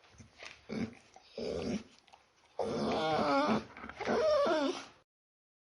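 A dog whimpering and whining: a few short whimpers, then two longer whines of about a second each with a wavering pitch, stopping about five seconds in.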